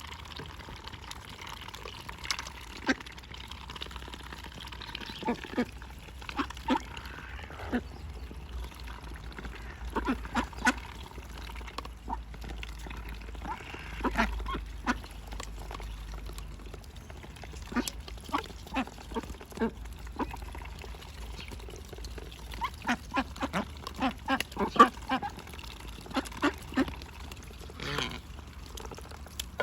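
Indian runner ducks quacking in short, scattered calls, coming thicker and faster in the last third.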